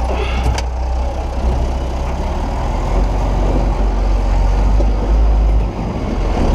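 Farm diesel engine running steadily at low revs with a deep, continuous rumble, with a couple of brief clicks about half a second in.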